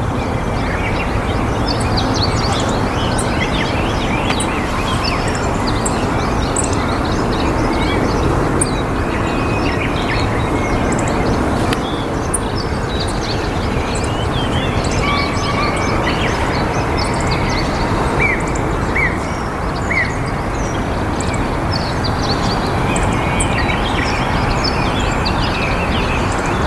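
Many small birds chirping and calling in short, high notes over a loud, steady rushing background noise.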